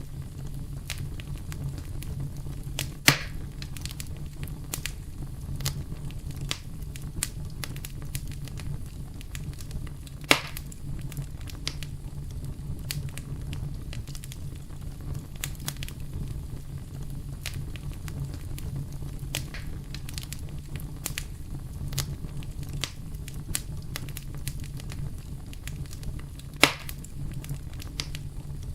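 Campfire burning with a steady low rumble and frequent small crackles of wood. Three louder pops come about three seconds in, about ten seconds in, and near the end.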